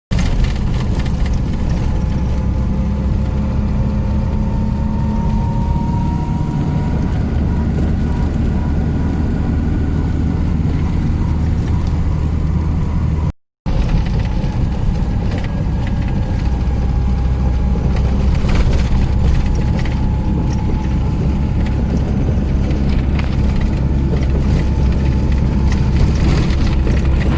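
Car towing a heavily loaded trailer, driving along the road: a steady low rumble of engine and tyres with a faint whine that drifts slowly in pitch. A brief cut near the middle breaks it.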